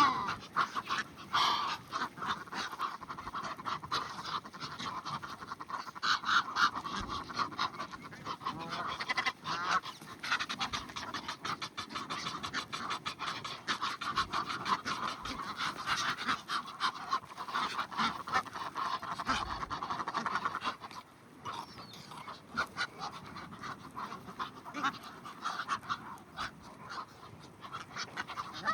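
A flock of waterfowl, Egyptian geese among them, calling at once in a dense, continuous chatter of short calls. The chatter thins out and quietens about two-thirds of the way through.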